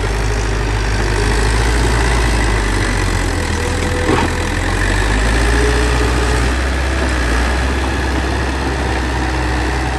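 Bulldozer's heavy diesel engine running steadily at a low, even speed, with a single sharp knock about four seconds in.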